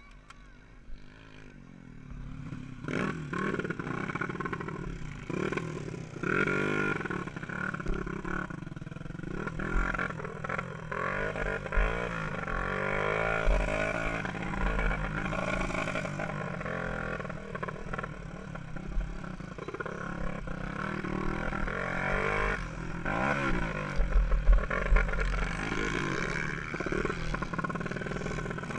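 Small 125–200 cc dirt-track motorcycle engine revving up and down as it is ridden round the track, heard from the rider's onboard camera, with low rumbling thumps. It is quieter for the first couple of seconds and louder from about three seconds in.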